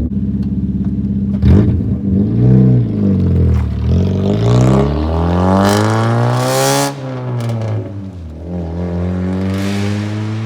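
Straight-piped car engine with the muffler removed, idling and then revved: a couple of quick blips, then a longer climb in pitch that peaks about seven seconds in and falls back to a steady idle, with a small blip near the end.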